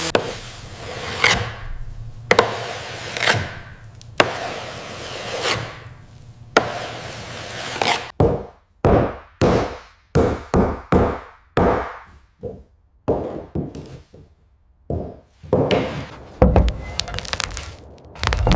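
Repeated hard knocks on wood, like blows from a tool. A few blows come about a second apart, then a quick run of two or three a second, then a few more near the end.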